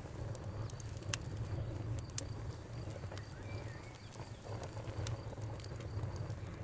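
Wood campfire burning, with sharp scattered crackles and pops over a low rumble of flames. A cricket chirps in an even rhythm behind it, and a bird gives one short call about halfway through.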